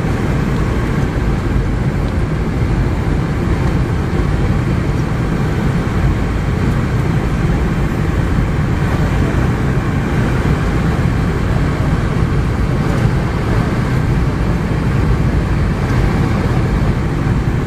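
Steady low roar of airliner cabin noise inside a Boeing 717-200, with its rear-mounted Rolls-Royce BR715 turbofan engines running.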